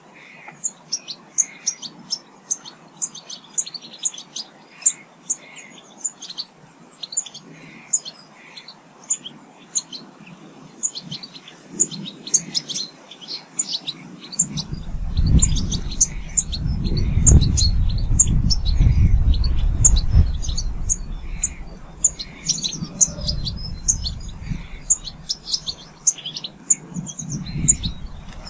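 Small garden birds chirping, with many short high calls in quick succession. About halfway through, a low rumble swells for several seconds, becoming the loudest sound, and then fades.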